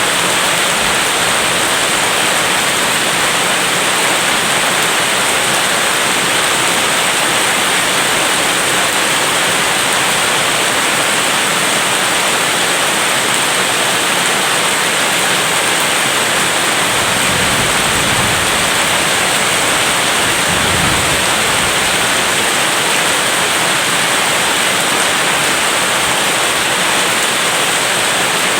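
Heavy rain falling steadily, a dense even hiss. Two brief low rumbles come about two-thirds of the way through.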